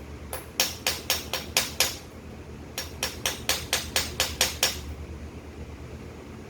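Two quick runs of hammer strikes, about four blows a second, with a pause of about a second between the runs, over a steady low hum.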